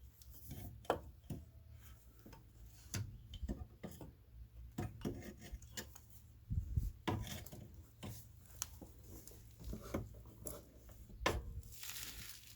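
Work-bench handling noises: irregular clinks, knocks and scraping of tools and metal parts being worked on, with a sharp knock about a second in and another near the end, followed by a short hiss.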